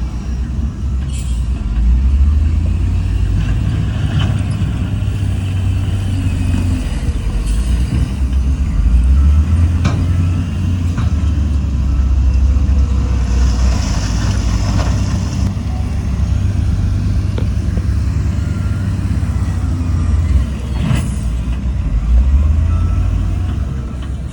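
Heavy diesel earthmoving machinery running with a deep, steady rumble that swells and eases, as a bulldozer and dump trucks work. About halfway through, a hiss of air lasting a couple of seconds, with a few sharp clanks scattered through.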